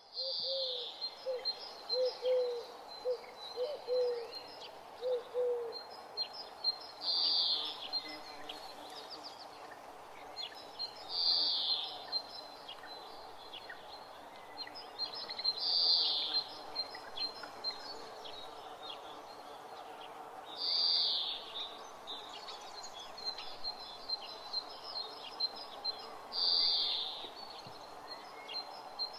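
Forest birdsong: a short, high call repeated six times, about every four to five seconds, over a thin steady high tone and scattered chirps. A run of short, low hooting notes sounds through the first six seconds.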